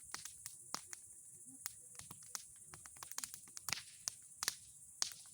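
Bonfire of old boards and pine cones crackling: irregular sharp pops and snaps, several a second, with a few louder ones in the second half.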